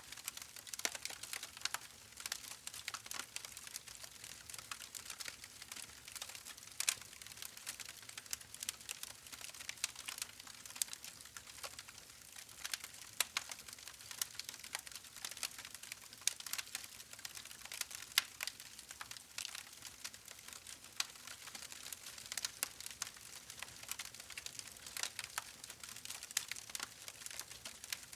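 Wood fire in a fireplace crackling, with a steady stream of small irregular pops and snaps over a soft hiss.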